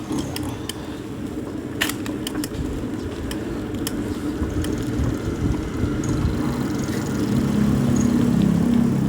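A motor vehicle's engine running close by over a steady road rumble. It grows louder from about seven seconds in as it draws near. There are a few sharp clicks in the first two seconds.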